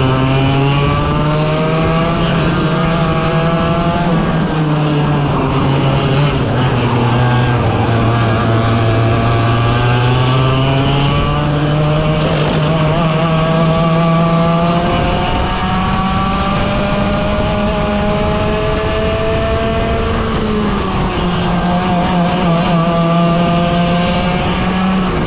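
A 100cc two-stroke racing kart engine running hard around a circuit. Its pitch climbs and falls again and again as it accelerates and backs off, with one long climb about two thirds of the way through.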